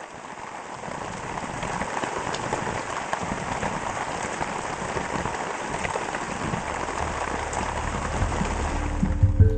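Steady rain falling, an even hiss with scattered drop ticks, slowly growing louder, with a low rumble building in the last few seconds.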